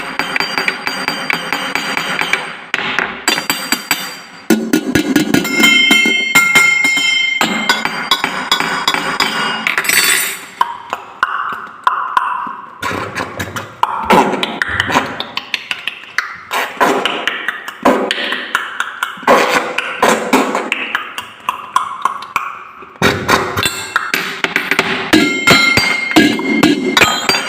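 Drinking glasses struck rapidly and rhythmically to play a tune, a stream of clinking strikes with ringing pitched tones.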